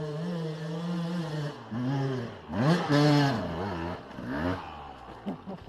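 Motorcycle engine running at a steady pitch, then revved up and back down several times, getting quieter near the end.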